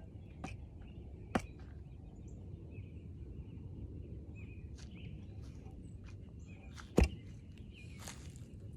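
Outdoor ambience: a steady low rumble with faint bird chirps, broken by two sharp knocks, the louder one about seven seconds in.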